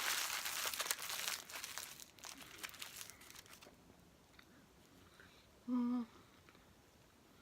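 Paper food wrapper crinkling and rustling as it is handled, stopping after about three and a half seconds; near the end comes one short hummed "mm".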